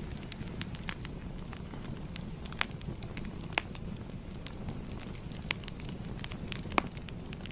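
Wood fire crackling: a steady low rumble of burning with frequent irregular sharp pops and snaps, a few louder ones standing out.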